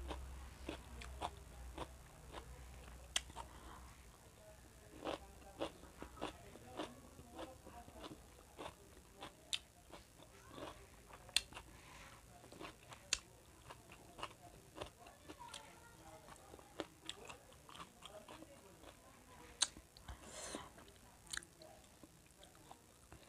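A person chewing and smacking while eating rice by hand: a run of short, sharp wet mouth clicks, several a second at times, with a short breathy sound near the end.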